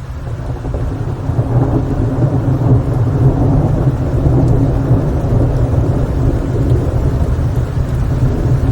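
Rain with a deep rolling rumble of thunder that builds over the first two to three seconds and then holds loud.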